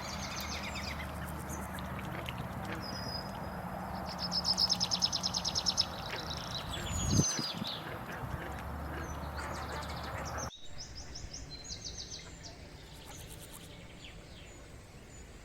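Birds calling, with rapid high-pitched trills over a steady low hum; a single thump comes about seven seconds in, and the sound cuts abruptly partway through, after which the hum is gone and the trills carry on more faintly.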